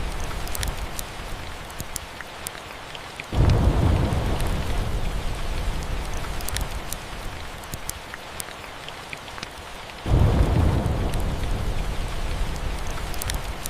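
Steady rain with two rolls of thunder, each a deep rumble that starts suddenly, one about three seconds in and one about ten seconds in, and fades slowly over several seconds. Scattered sharp crackles run through it.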